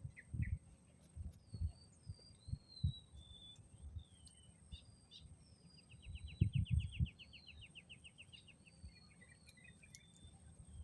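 Wild birds calling with short slurred whistles, and about two seconds of rapid trill at roughly ten notes a second past the middle. Irregular gusts of wind buffet the microphone with low rumbles, the strongest a little past the middle.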